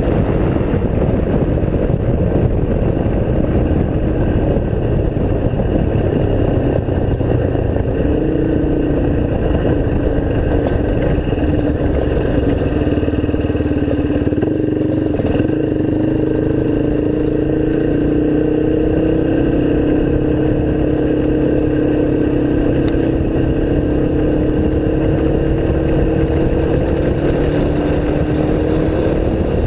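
Single-cylinder off-road engine running at a fairly steady speed while riding, its pitch drifting only slightly.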